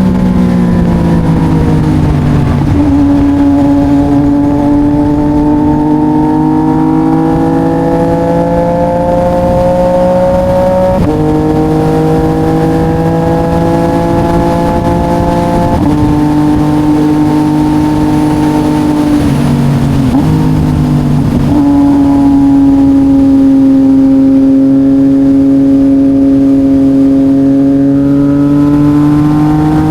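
CFMOTO 675SR inline-three engine running through an SC Project carbon exhaust while riding. The note climbs slowly under load and steps down in pitch at each gear change, several times over.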